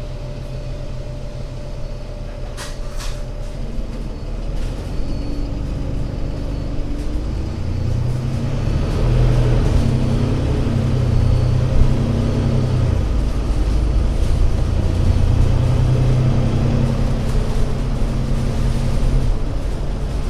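Alexander Dennis Enviro500 MMC Euro 6 double-decker bus engine running steadily, then working harder and getting louder from about eight seconds in as the bus pulls away. It eases off briefly around thirteen seconds, then pulls hard again.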